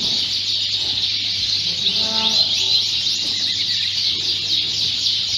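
Many Fife Fancy canaries singing together in a dense, unbroken chorus of overlapping high chirps and trills.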